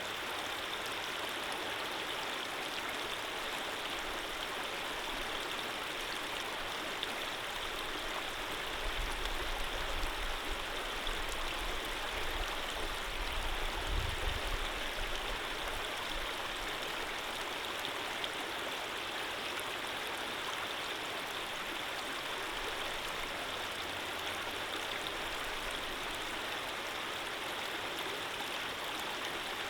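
Stream water running steadily with an even rushing hiss. A low rumble swells in underneath about a third of the way through and fades again about halfway.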